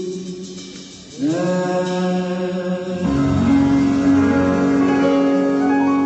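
Band music from a sound check: long held notes rather than a beat. One fades away in the first second, a new chord swells in about a second in, and a lower steady note takes over about three seconds in.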